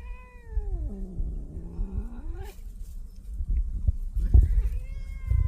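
Domestic cat meowing in long drawn-out calls: one that rises and falls at the start, a lower wavering one after it, and another long one about four and a half seconds in. Low rumbling noise runs underneath.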